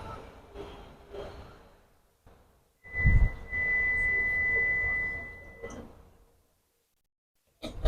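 Tram door-closing warning tone: one steady high-pitched beep held for about three seconds, starting with a low thump about three seconds in.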